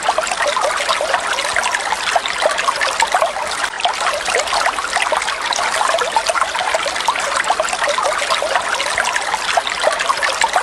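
Falling water splashing and trickling steadily, a dense patter of many small droplet splashes.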